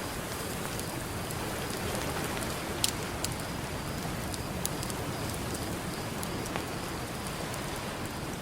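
Campfire crackling, with scattered sharp pops, the loudest about three seconds in, over a steady wash of ocean surf.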